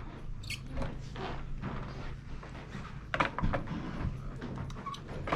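Small plastic clicks and taps as old bulbs are twisted and pulled out of a 2006 Honda Element's instrument cluster with needle-nose pliers, over a low steady hum.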